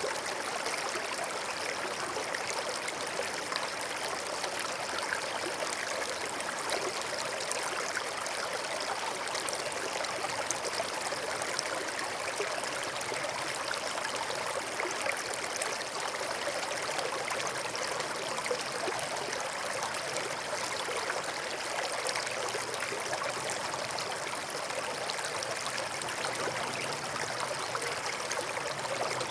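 Forest stream babbling steadily over rocks, an even rush of water with fine splashing and trickling.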